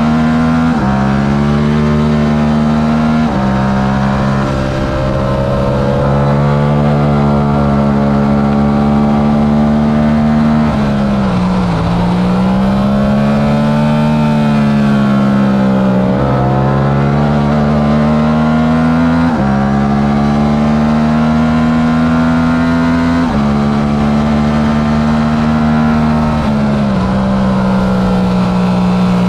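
Yamaha R7's 689 cc parallel-twin engine at racing revs, heard from on the bike. The pitch climbs and then drops sharply at each of several gear changes, and it sags and builds again once about halfway through.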